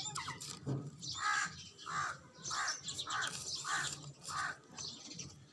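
A bird calling six times in a row, about one call every half second or so.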